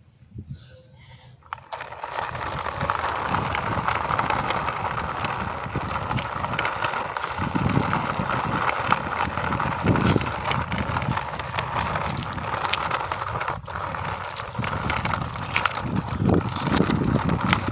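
Plastic toy car wheels rolling and rattling over a surface as a toy vehicle is pushed along by hand, with occasional knocks. The rolling starts a little over a second in.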